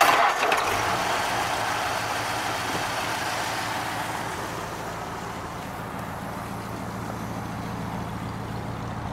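1953 Mercury Monterey's 4.2-litre flathead V8 running at a steady idle. A louder rushing noise at the start dies away over the first four or five seconds, leaving the low, even idle.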